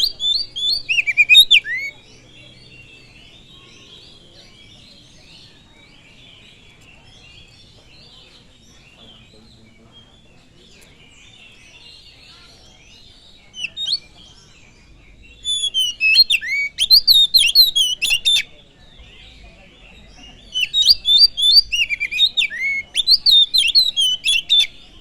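Oriental magpie-robin (kacer) singing loud, rapid phrases of sweeping whistles and chattering notes in bouts: at the start, from about 14 to 18 seconds, and again through the last few seconds. A faint continuous high chatter runs beneath in the gaps.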